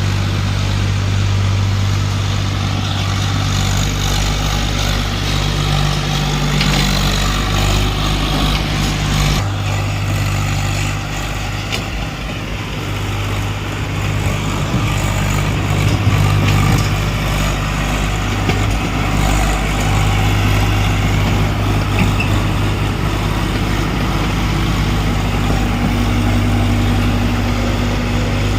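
Diesel engine of a Bull 55 hp bulldozer running steadily at a constant pitch.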